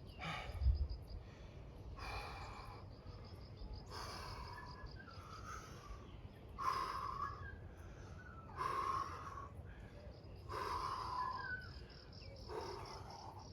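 A man breathing hard and rhythmically through exercise reps, a forceful exhale about every two seconds, with crickets chirping steadily. A low thump about a second in.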